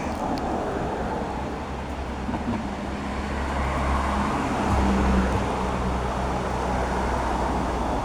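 A car's engine passing by, a low hum whose noise swells to a peak about five seconds in and then eases off.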